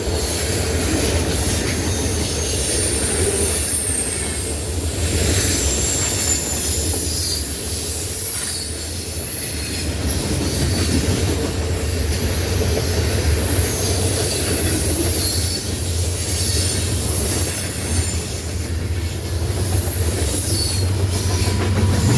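Norfolk Southern freight train rolling past, its wheels squealing in thin, high, wavering tones over a steady low rumble of the cars on the rails.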